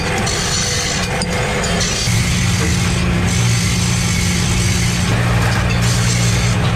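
Workshop machinery running: a steady low hum that grows stronger about two seconds in, over a constant noisy din.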